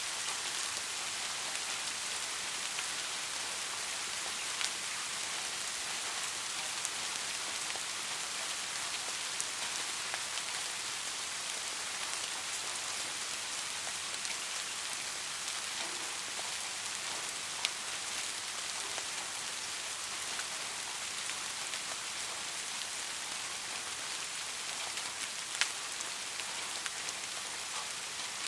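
Steady rain making an even, dense hiss, with a few single louder drops ticking sharply now and then.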